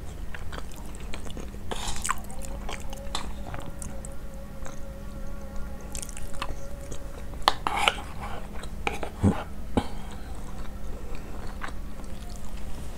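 Close-miked chewing of a mouthful of basmati rice, with soft wet mouth clicks and smacks scattered through it and a few sharper clicks in the second half.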